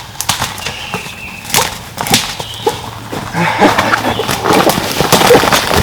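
Irregular crunching and rustling in dry leaves and brush, growing louder and denser from about halfway through.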